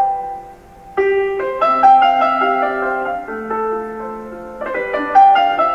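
Background piano music: slow, gentle single notes and chords, with a short lull about half a second in before the notes pick up again.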